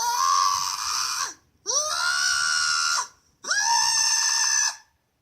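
An animal screaming: three long, loud, harsh calls in a row, each rising quickly in pitch at the start and then held.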